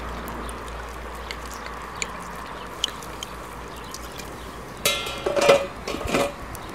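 Liquid being poured into a pot of goulash. There is a short run of splashing and clinking about five seconds in.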